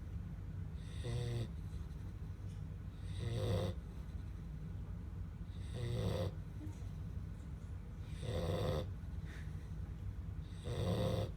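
Black Labrador puppy snoring in its sleep: five short snores, one about every two and a half seconds, over a steady low background hum.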